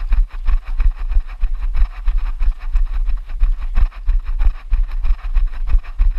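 Footsteps of a person running: rapid, even footfalls over a constant low rumble, the thuds carried through a camera worn or held by the runner.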